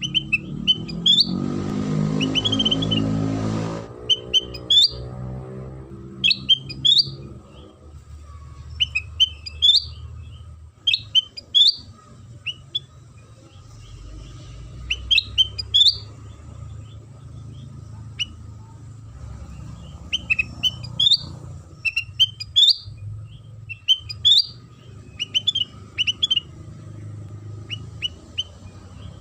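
A kutilang sutra songbird singing: short, sharp, high chirping phrases repeated every second or two. A low rumble is louder through the first few seconds, then fades under the song.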